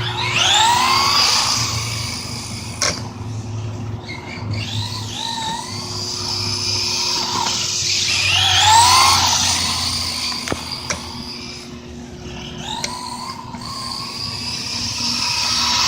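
Electric RC short course truck's stock motor, running on a 2S LiPo, whining as it is driven, its pitch rising with each burst of throttle and falling off again, over and over.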